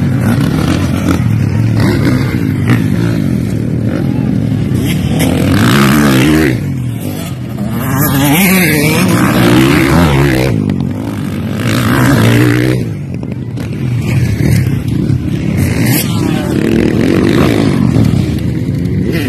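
Motocross dirt bike engines revving and racing past, the pitch rising and falling as throttles open and close, with louder passes about six, nine and twelve seconds in.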